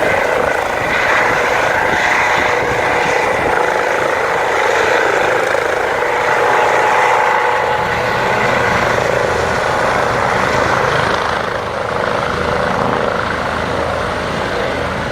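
Air ambulance helicopter running on the ground, its engine and rotor making a loud, steady din that eases slightly about eleven seconds in.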